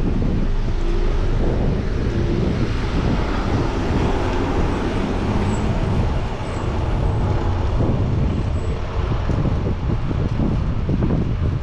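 Wind buffeting the microphone over the hum of city traffic, with motor vehicles passing.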